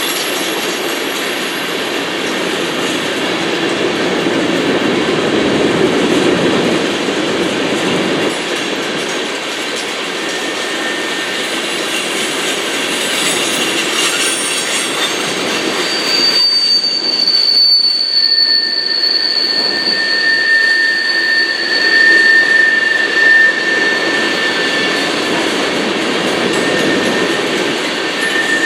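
Freight train cars rolling past, a steady noise of wheels on rail. Past the halfway point, two steady high-pitched wheel squeals set in, one after the other, and hold.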